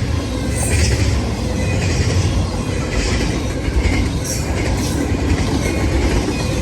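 Freight train cars of an intermodal train rolling past: a steady low rumble with wheel clatter and occasional brief squeals from the wheels.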